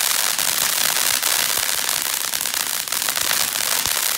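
Phantom ground fountain firework burning, a steady hiss of spraying sparks full of rapid small crackles.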